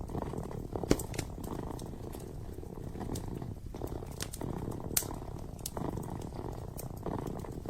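Kitten purring steadily in slow swells, with the sharp crackles and pops of a burning fireplace now and then, the loudest pops about one second and five seconds in.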